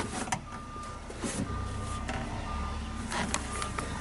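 An electronic warning beeper on the skid steer sounds a series of beeps, each about half a second long, on one steady pitch. A few sharp clunks sound among the beeps.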